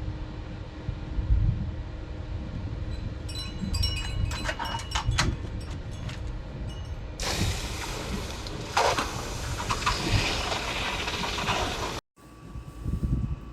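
Red-hot, clay-coated wootz steel blade being quenched in warm water: a run of sharp crackles and ringing pings, then a loud, steady hissing sizzle of boiling water and steam for several seconds. It cuts off abruptly near the end.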